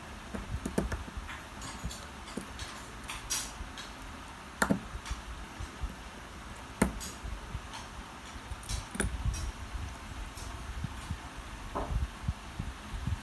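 Scattered small clicks and light taps of metal tools and a watch being handled during a battery replacement, over a steady low background rumble. The sharpest clicks come about 4.5 s, 7 s and 9 s in.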